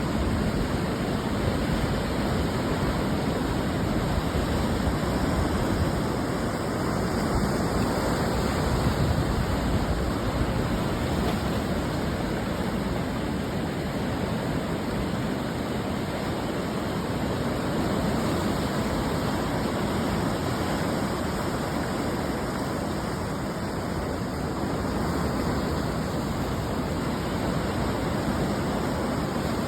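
Ocean surf breaking on the shore, heard as a continuous, even wash of noise with only gentle rises and falls in loudness.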